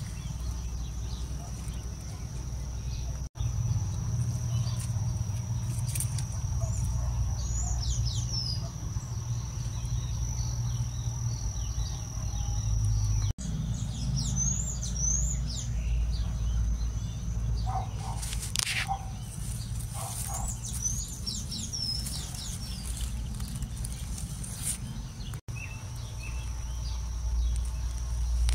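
Garden birds chirping now and then in short quick calls, over a steady low rumble and a thin steady high whine. The sound cuts out briefly three times.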